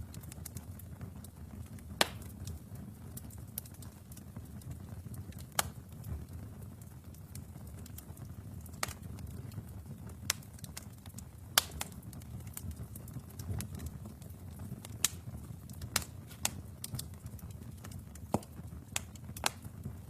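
Wood fire burning in a fireplace: a low steady rumble of flames with irregular crackles and sharp pops from the burning logs.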